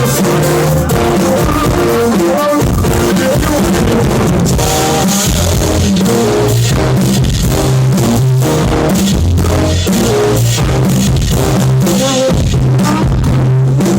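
Live band music: a rock band with drums, bass, guitar and singing, recorded loudly and roughly from the audience.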